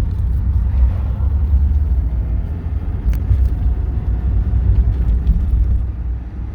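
1983 Porsche 944's inline-four engine running under way, a steady low rumble with road noise heard from inside the cabin, easing off briefly near the end as the car goes up through the gears.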